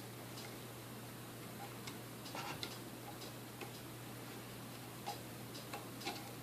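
Faint, irregular clicks and taps of small parts and tools being handled while a mixer is worked on, over a steady low hum.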